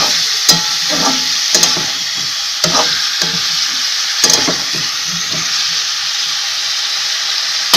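Sliced onions and potato pieces sizzling in hot oil in a kadai, with a metal spatula scraping against the pan several times as they are stirred.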